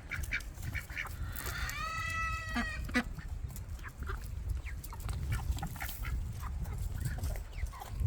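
Backyard poultry at feeding: one drawn-out call about a second long near the middle, with scattered short taps and clicks and a low rumble underneath.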